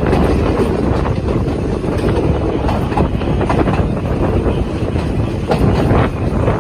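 Train running on the rails, heard from on board: a steady rumble with scattered sharp clicks from the wheels.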